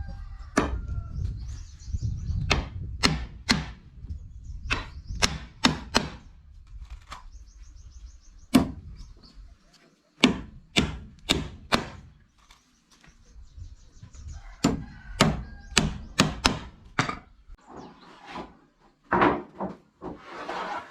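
Repeated sharp blows on wood from a hand tool, coming in irregular runs of a few strikes with short pauses between them.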